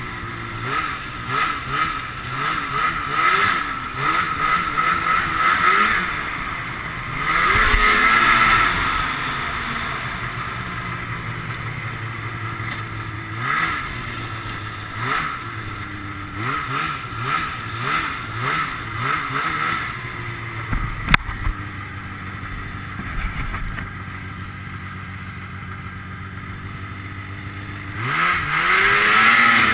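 Ski-Doo Blizzard 5500 snowmobile's fan-cooled Rotax twin two-stroke engine, its pitch rising and falling over and over as the throttle is worked, with long loud pulls about eight seconds in and near the end. A single sharp click a little past twenty seconds.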